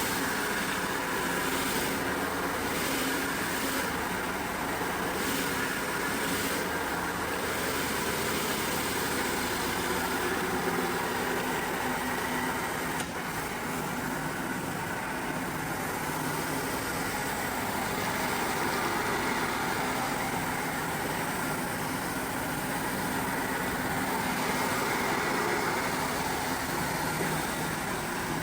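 A steady motor-driven machine running without a break, a constant dense mechanical noise.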